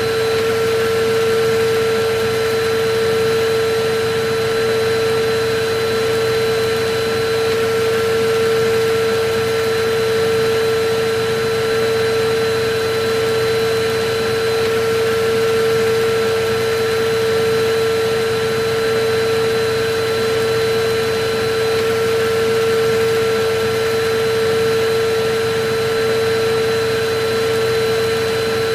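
Electric vacuum cleaner running steadily: a constant motor whine at one pitch over a rushing airflow hiss.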